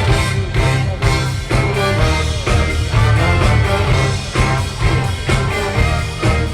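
Live big band playing loud, with a regular drum beat and heavy bass under a dense mix of instruments.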